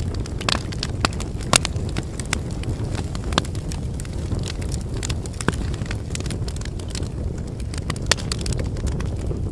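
Wood campfire burning: a steady low rumble of flames with frequent sharp crackles and pops from the burning firewood, several a second, the loudest about one and a half seconds in.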